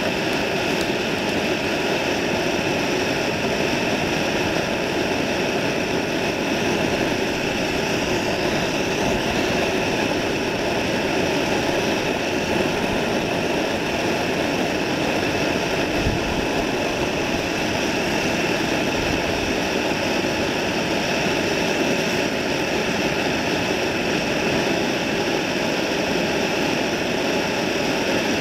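A large fire burning with a steady rushing noise that does not change.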